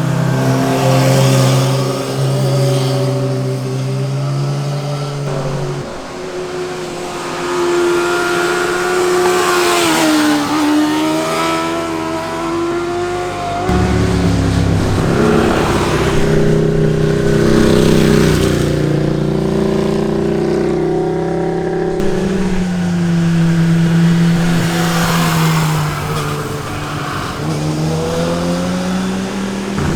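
Sport motorcycles' engines and exhausts going past one after another, revving up and down. The pitch dips as a bike passes about ten seconds in.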